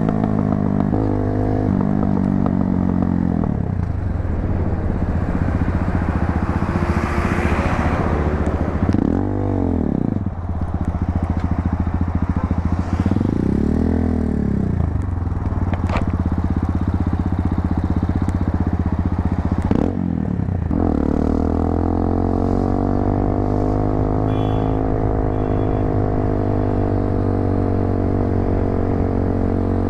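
250cc motorcycle's aftermarket muffler exhaust while riding, its pitch falling and climbing again twice as the throttle is closed and opened, then holding a steady cruise.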